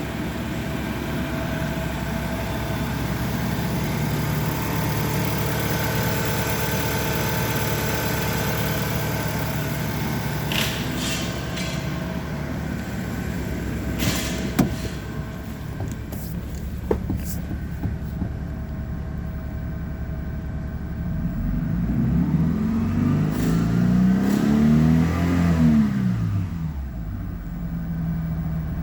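LDV G10's 2.4-litre petrol engine running steadily at idle, with a few sharp clicks in the middle. In the last third it is revved up and let back down several times, in an engine test that the engine passed as good.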